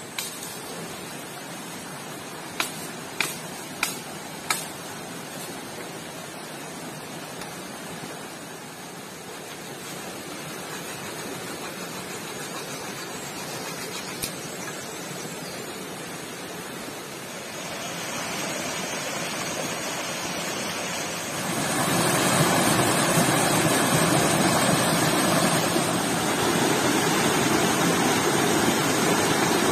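Creek water rushing and splashing in a steady noise that grows clearly louder about two-thirds of the way through. A few sharp clicks or knocks come in quick succession a few seconds in, and one more about halfway.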